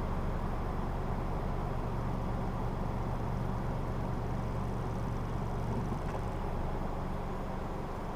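Vehicle driving at a steady pace: an even engine hum with road noise, fading slightly near the end.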